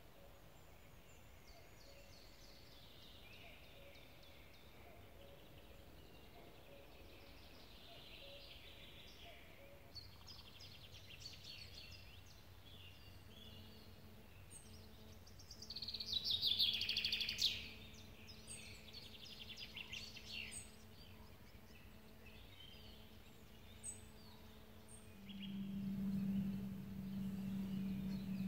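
Several songbirds singing and calling outdoors, with one loud trilling song about halfway through. A steady low hum joins about halfway and grows louder near the end.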